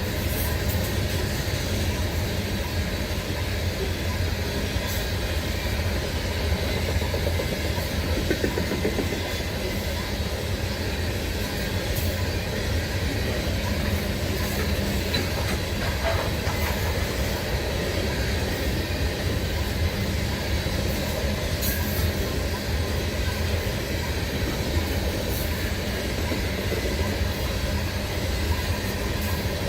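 BNSF coal train's freight cars rolling past on the rails, a steady rumble with a few scattered wheel clicks.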